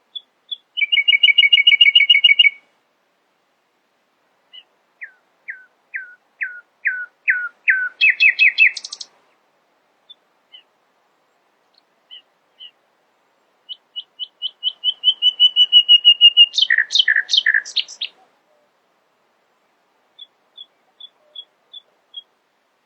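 Common nightingale singing in separate phrases: a fast trill held for about two seconds near the start, then a run of descending whistled notes that speed up into a rattle, then a long accelerating trill breaking into loud rattling notes, with a few soft single notes near the end.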